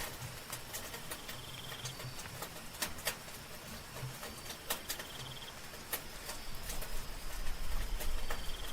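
Soft rain falling steadily with scattered drip ticks. Over it, night insects: a short pulsed trill repeats three times, about every three seconds, against a faint steady high insect tone. A low rumble swells near the end.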